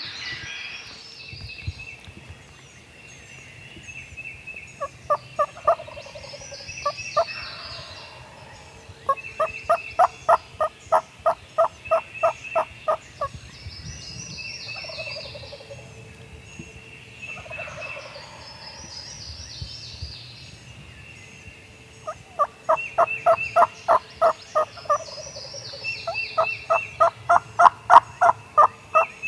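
Wild turkeys calling: long runs of rapid yelps, about four a second, come several times, with falling calls in between. Songbirds chirp throughout.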